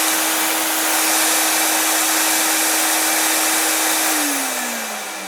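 Electric vacuum motor of a homemade bee vacuum running with a steady rushing hum. About four seconds in it is switched off and winds down, its pitch falling.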